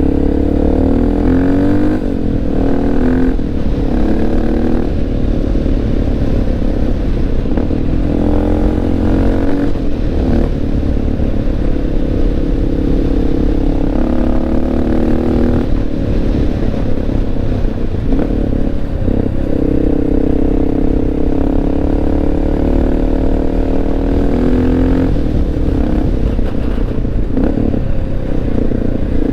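Honda XR650L's single-cylinder four-stroke engine running steadily under way, its pitch rising and falling several times with throttle and gear changes.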